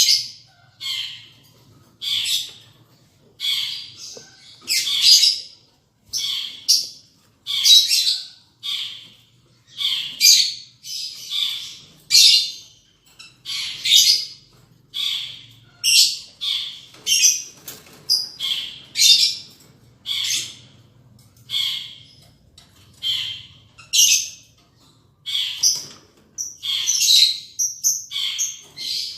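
Lovebirds calling: short, shrill squawks repeated roughly once a second.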